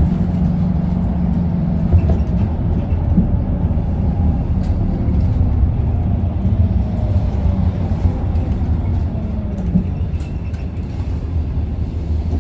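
Interior running sound of a 2019 Isuzu Erga city bus, its four-cylinder diesel engine and drivetrain giving a steady low rumble, with a faint whine slowly falling in pitch midway and a few light knocks and rattles.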